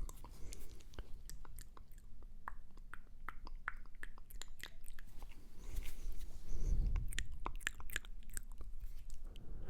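Close-miked ASMR mouth sounds: a rapid, irregular run of wet clicks and smacks of the lips and tongue, with a low rustle joining in about two-thirds of the way through.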